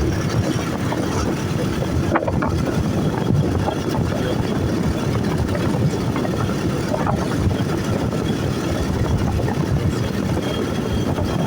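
Motorcycle under way: the engine runs steadily under a constant low rumble of wind on the microphone.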